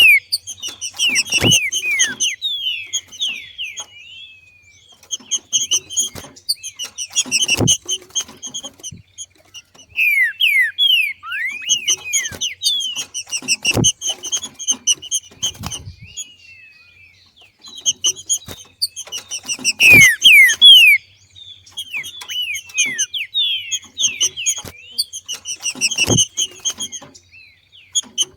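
Female trinca-ferro (green-winged saltator) giving its macheado call: bouts of rapid, falling chirps, about five of them, repeating every five to six seconds. Each bout carries one sharp knock.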